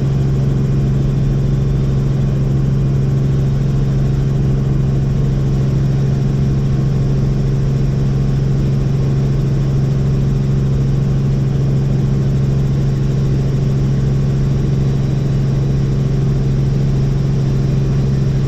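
Helicopter in flight: a loud, steady drone with a strong low hum that holds one pitch throughout.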